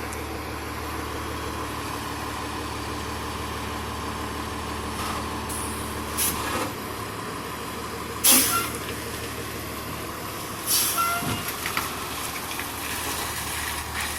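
Fire engine idling with a low steady hum that drops away about halfway through, and three short sharp hisses of air, the loudest about eight seconds in, typical of air brakes releasing as the rig gets ready to move.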